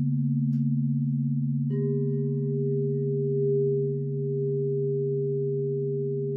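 Crystal singing bowls ringing in long, steady, pure tones with a slow wavering beat. A higher bowl is struck and joins in less than two seconds in, ringing on over the lower ones.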